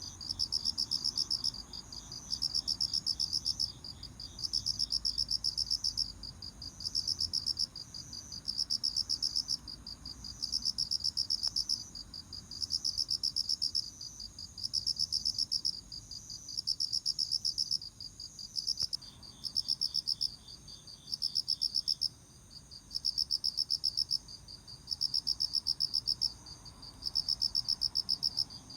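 Autumn crickets chirping: one insect sings high, pulsed trills about a second long, repeating with short pauses. A second, fainter and lower-pitched cricket chirps at the start and again about two-thirds of the way through.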